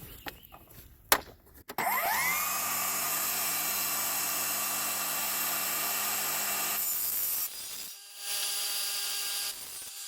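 Table saw motor spinning up with a rising whine about two seconds in, then running steadily as it rips a wooden board lengthwise. It cuts out and then runs again briefly near the end.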